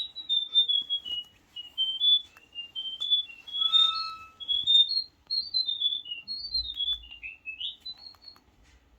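Pets Alive Chirpy Birds electronic toy bird chirping: a quick, unbroken run of short, high whistled chirps rising and falling in pitch, which stops shortly before the end.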